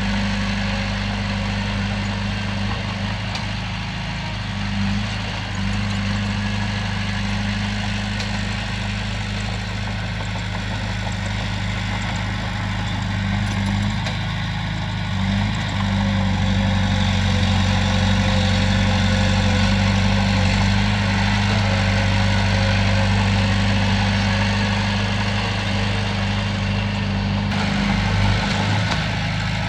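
Heavy diesel engine running steadily with a deep, even hum, a little louder from about halfway through.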